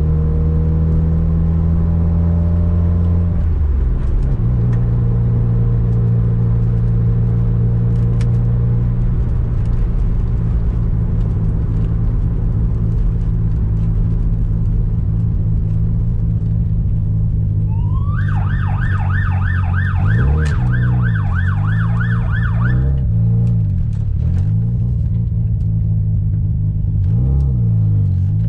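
Mazda RX-7's turbocharged 13B rotary engine running at low revs, its pitch shifting about three seconds in and rising and falling later on. About two-thirds in, a police siren sounds a fast up-and-down yelp for about five seconds.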